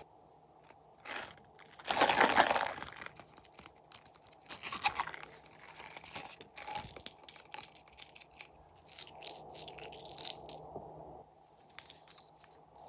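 Slime being worked by hand, with irregular crunching and crackling. The loudest crunch comes about two seconds in.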